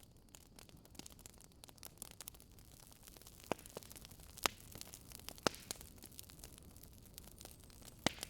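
Wood fire crackling: irregular sharp snaps and pops over a faint hiss, with a few louder pops in the middle and one near the end.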